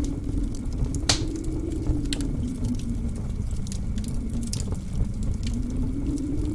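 Blizzard wind howling, its pitch slowly sinking and rising again, over a steady low rumble, with a wood fire crackling in a fireplace: scattered sharp pops, the loudest about a second in.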